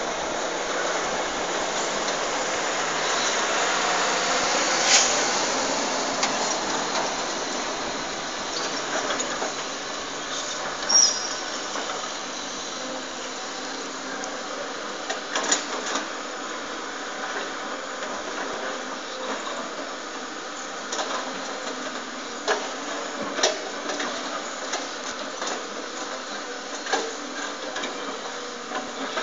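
Hydraulic excavator at work: a steady engine and hydraulic noise, with sharp clanks and knocks every several seconds.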